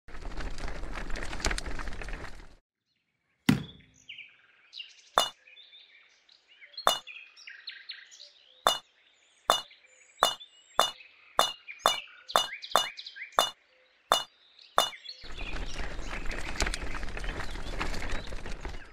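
Miniature clay bricks set one by one into a small toy wheelbarrow, each landing with a sharp clink, about fifteen clinks spread over ten seconds. Near the end, a steady gritty rasp as the loaded wheelbarrow is pushed through sand.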